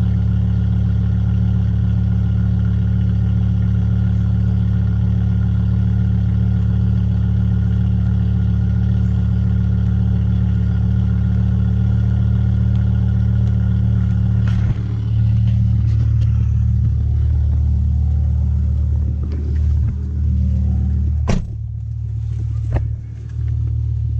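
BMW E60 M5's V10 engine, straight-piped with the catalytic converters removed, running at steady revs with a low, even note. About 15 seconds in the note changes, and a few sharp clicks come through over the following seconds.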